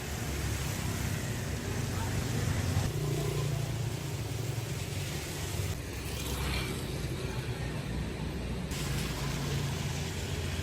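Street traffic noise: motor vehicle engines running steadily with a constant hiss, and a faint voice in the middle.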